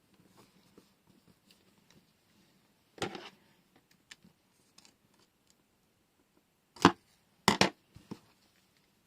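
Desktop handling of washi tape rolls and their packaging: faint rustles and ticks, a short scrape about three seconds in, then a few sharp clicks or snaps near the end, two of them close together and the loudest.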